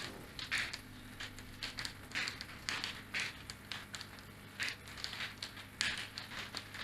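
Plastic milk bottle with small objects inside being shaken as a homemade shaker, rattling in short irregular bursts about once or twice a second.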